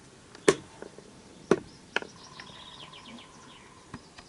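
Four sharp knocks spaced unevenly over the few seconds, over faint background with a thin steady tone near the middle and faint chirps.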